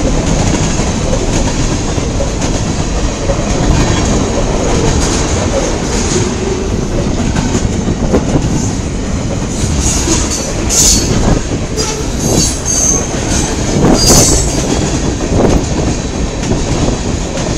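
Long freight train of mixed cars rolling past close by, its wheels rumbling and clacking over the rails. Short high-pitched wheel squeals break in several times about ten to fourteen seconds in.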